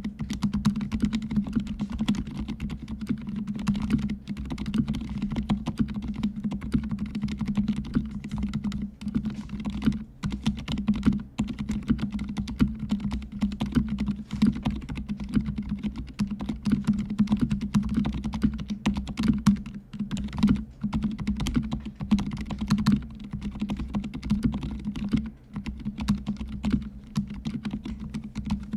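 Mechanical keyboard with fully lubricated silent red switches being typed on quickly and continuously: a dense stream of soft, low, muted keystrokes.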